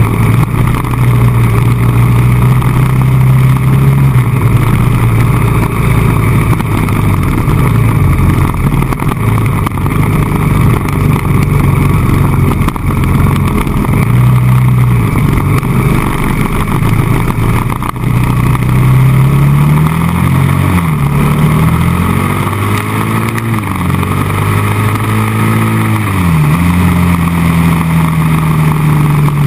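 Honda XR600R single-cylinder four-stroke engine running at cruising speed, heard close up from the bike, with a steady rush of wind noise. In the second half the engine note dips and climbs back up several times.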